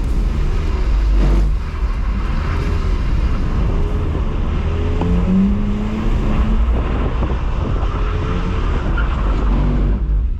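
BMW E46 320i's M54B22 2.2-litre straight-six engine, heard from inside the cabin, revving up and down repeatedly during a drift, over a heavy low rumble.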